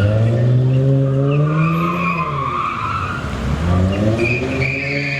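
A car engine revving hard with its tyres squealing, as in a drift or donut at a street sideshow; the engine pitch climbs over the first two seconds, drops, and climbs again near the end.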